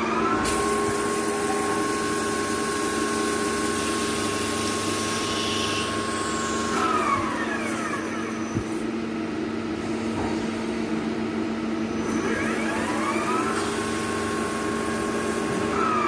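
CNC machine spindle whining up to speed, running at a steady pitch with a rushing hiss, winding down about seven seconds in, then spinning up again about twelve seconds in and winding down near the end. A steady low hum runs underneath.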